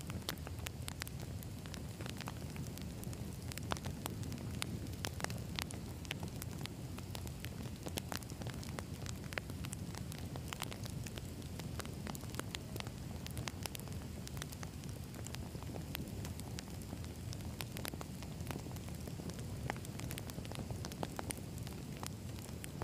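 Wood fire burning: a steady low rumble of flames with many irregular crackles and pops from the burning logs.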